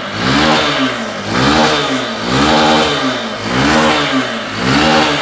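Honda Bros 150's single-cylinder engine revved in repeated throttle blips, five of them about a second apart, each rising and falling in pitch. The engine has just been repaired for a strange noise and runs cleanly enough for the mechanic to pass it.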